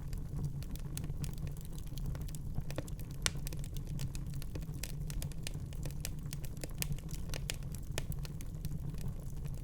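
Wood fire crackling in a fireplace: a steady low rumble of the burning fire with frequent small, irregular pops and snaps.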